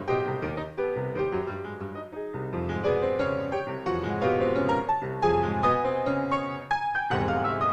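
Solo piano playing fast, stormy passagework over heavy bass. About seven seconds in, a sharp loud chord sets off a rapid descending run.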